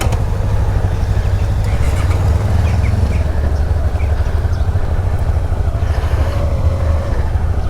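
Suzuki V-Strom 650's V-twin engine running steadily under way, a continuous low rumble.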